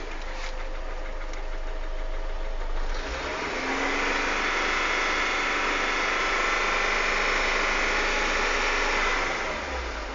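Volkswagen 1.6 AEE four-cylinder petrol engine running with a knock from the camshaft in its worn bearing seats in the cylinder head. About three seconds in the revs rise and are held up for some six seconds, then fall back to idle near the end.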